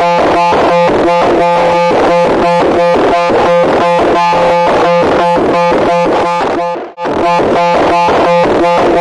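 Loud, harsh electronic buzzing tone pulsing rapidly, with a brief break about seven seconds in.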